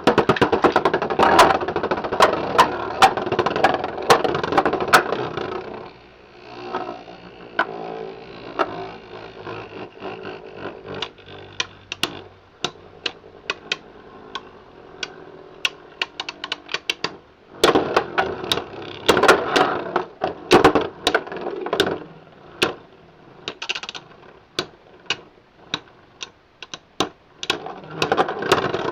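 Beyblade X spinning tops battling in a plastic stadium: many sharp clacks as the tops collide, with two longer stretches of dense rattling, one at the start and one about two-thirds of the way through.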